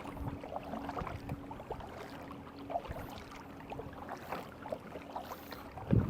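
Water splashing and lapping around a kayak as it is paddled, with many small scattered drips and splashes. A louder low rush of wind on the microphone comes in near the end.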